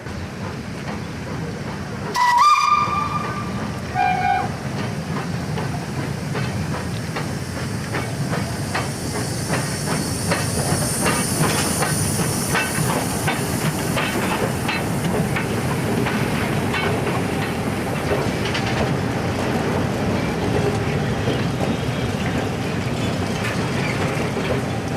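Steam locomotive whistle: one blast that slides up onto its pitch, then a short, lower second toot. The locomotive then works a train, with steam hissing over a steady run of rhythmic beats.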